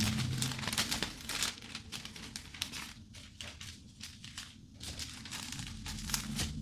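Cellophane wrapping crinkling in short, irregular bursts as it is handled and folded.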